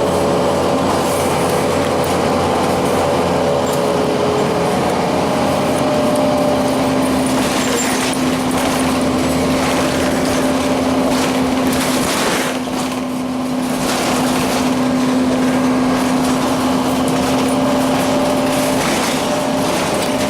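Cummins ISC diesel and Allison transmission of a 2002 Blue Bird CS transit bus running, with a steady whine that settles to a lower pitch about five seconds in and holds; the level dips briefly near the middle.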